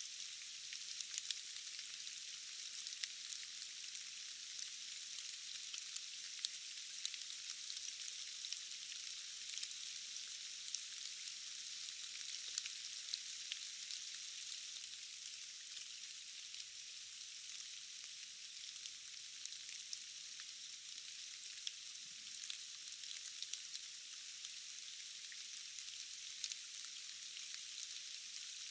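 Steady rain: an even high hiss with many small drop ticks scattered through it.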